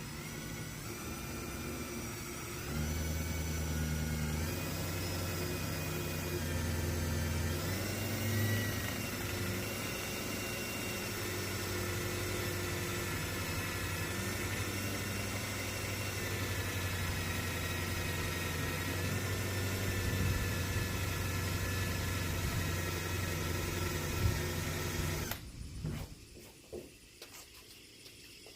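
Drill spinning a rubber eraser wheel against the truck door's paint to burn off old double-sided molding tape: a steady motor whine that changes speed a few times in the first several seconds, then holds, and stops a few seconds before the end.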